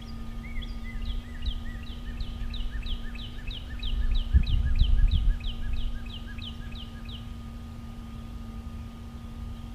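A songbird singing a long series of repeated down-slurred whistled notes, about three a second, which stops about two-thirds of the way through. Underneath there is a steady low hum, and a low rumble in the middle that is briefly the loudest sound.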